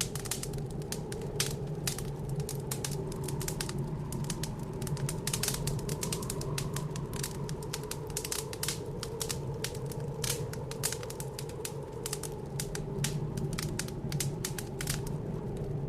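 Wood fire burning in a fireplace, crackling with many irregular snaps and pops over a steady low rushing sound.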